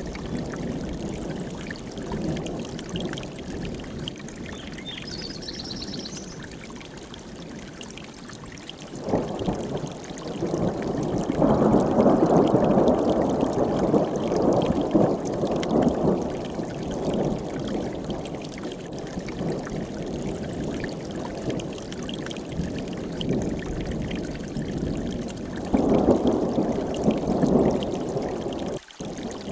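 Mountain stream rushing and splashing over rocks, getting louder for several seconds from about nine seconds in and again near the end, with a brief drop-out just before the end. A short high bird chirp sounds about five seconds in.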